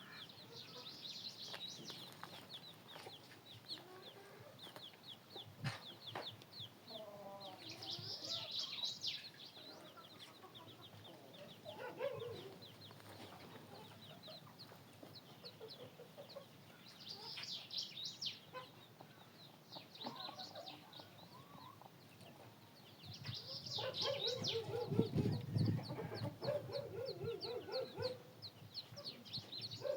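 Chickens clucking and calling on and off, with bouts of rapid, high-pitched chirping. The loudest calling comes about three-quarters of the way through.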